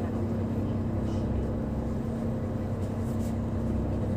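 Passenger ferry's engine running steadily: a constant low drone with a steady hum.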